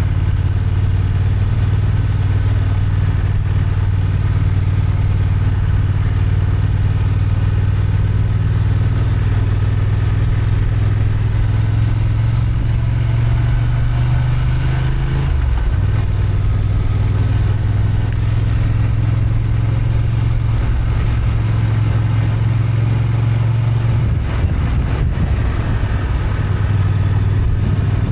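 Honda XL750 Transalp's parallel-twin engine running steadily under way, heard raw on board. About halfway through its pitch dips briefly, then holds steady again.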